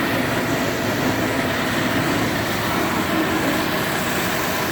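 Steady noise of heavy demolition machinery running, with no distinct crashes or impacts.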